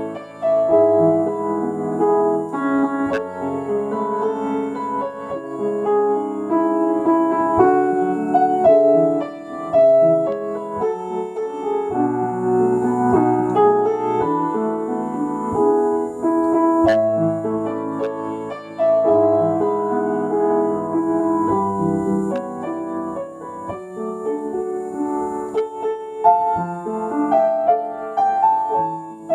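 Solo piano playing a slow, sustained elegy: chords and melody notes struck and left to ring.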